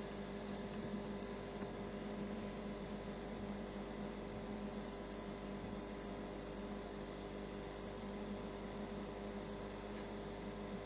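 Steady electrical-sounding hum with several steady tones held over a faint hiss; nothing else happens.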